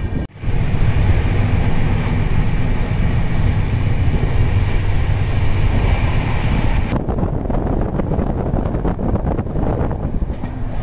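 Steady rumble and rattle of a moving passenger train, heard from its open doorway with wind on the microphone. The sound drops out for a moment just after the start and changes abruptly about seven seconds in.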